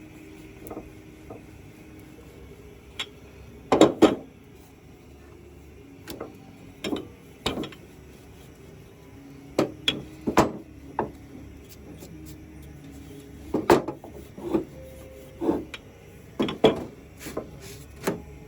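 Irregular knocks and clunks of objects being handled and set down, about a dozen, with the loudest double knock about four seconds in.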